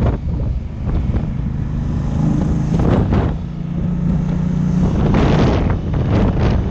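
Wind buffeting the microphone on a moving motorcycle, over the steady drone of a Honda African Twin 1100's parallel-twin engine at cruising speed. Gusts surge about three seconds in and again near five seconds.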